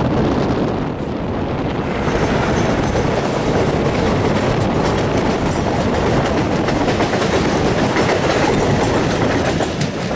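Passenger train running at speed, wheels clattering over the rail joints with a steady rumble. About two seconds in, a brighter, hissier rattle joins it and carries on.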